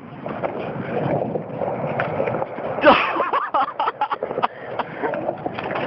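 Skateboard wheels rolling over wet concrete with a splashing hiss. About three seconds in there is a sudden loud sliding sound, followed by a quick string of clacks and knocks from the board.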